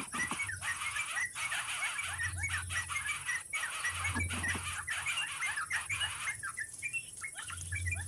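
Rapid high chirping, several short notes a second, with a deep hum that swells about every two seconds.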